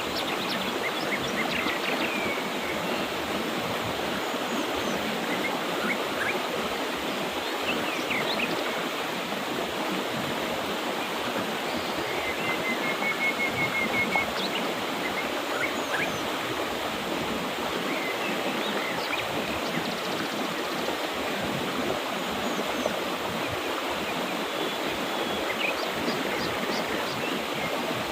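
Mountain river rushing steadily over rocks, with scattered short bird chirps above it and a brief rapid trill about halfway through.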